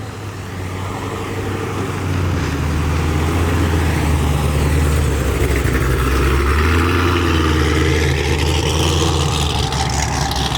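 Cadillac CTS-V sedan's V8 engine running at low speed as the car rolls in, a steady low rumble that grows louder over the first couple of seconds.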